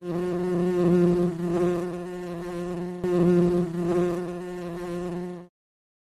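A flying insect's wings buzzing steadily, swelling louder twice, then cutting off suddenly near the end.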